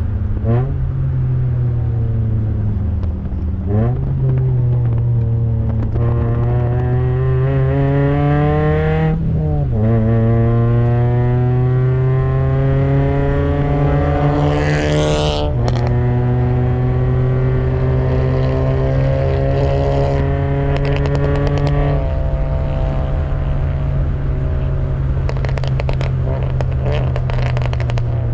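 Toyota Yaris NCP91 race car's 1.5-litre four-cylinder engine pulling hard, its pitch climbing through the revs and dropping sharply at upshifts about 4, 9 and 15 seconds in. After the last shift it holds a steady, slowly falling pitch.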